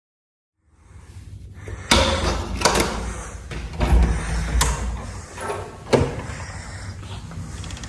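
A door being opened and handled: a run of sharp knocks and clicks, the loudest about two seconds in and again about six seconds in, over a low rumble.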